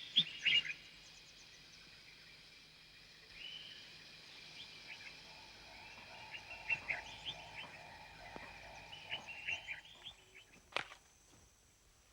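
Rainforest wildlife ambience: many short chirping calls of small animals, faint, with a steady high whine joining about ten seconds in and a single sharp click near the end.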